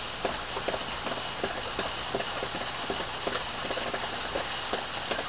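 Steady rain hiss with irregular drops tapping on nearby surfaces, several taps a second.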